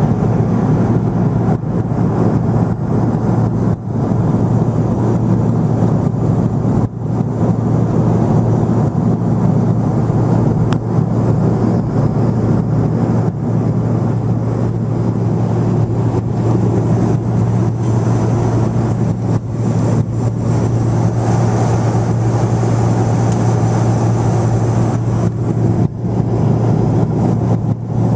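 Jet airliner heard from inside the cabin: the engines and rushing air make a loud, steady low rumble.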